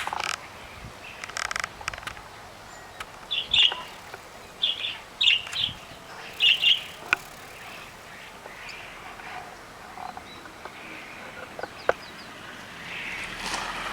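Caged canary chirping: a handful of short, high chirps close together between about three and seven seconds in, with a few sharp clicks scattered through.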